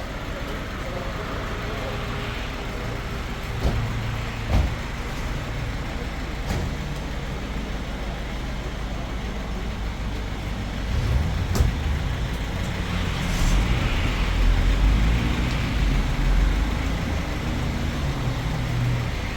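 A vehicle driving: a steady engine and road rumble with a few knocks and bumps, about four seconds in and again near twelve seconds. The rumble swells for a few seconds after that.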